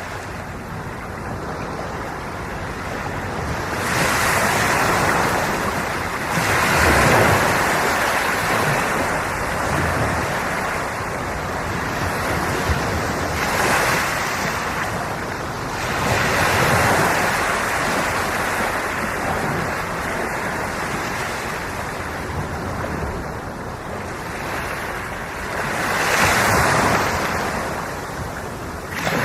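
Ocean waves breaking and washing ashore, swelling and falling back every few seconds, with some wind on the microphone.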